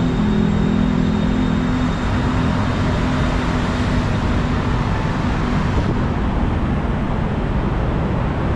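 BTS Skytrain train running: a steady rumble and rush of wheels and car noise, with a low hum that fades out about two seconds in.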